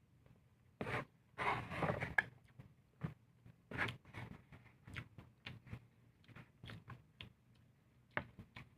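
A person eating close to the microphone: irregular chewing and mouth sounds with small clicks, busiest about one and a half to two seconds in.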